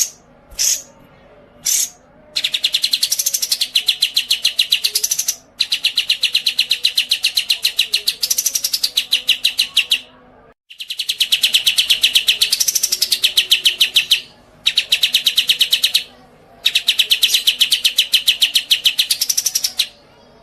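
A cage songbird singing: a few short chirps, then a run of long, fast trills of evenly repeated notes, each lasting a few seconds with brief pauses between.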